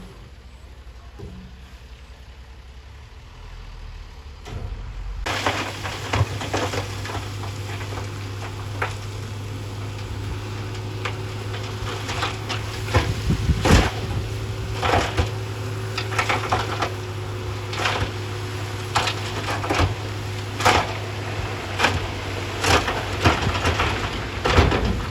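Heavy construction machine's diesel engine running steadily, with repeated sharp knocks and clatter of rock. The engine gets louder and the knocks begin about five seconds in, after a quieter low hum.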